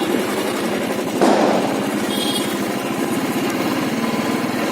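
Motorcycle engine running steadily with a fast, even pulsing beat. About a second in there is a brief louder burst of noise.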